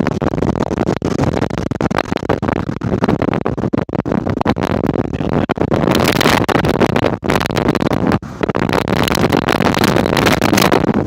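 Wind buffeting the microphone: a loud, irregular rush of noise with frequent brief dropouts.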